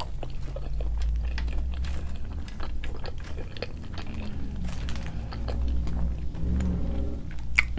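A person chewing and biting McDonald's food close to the microphone: a run of small, irregular mouth clicks.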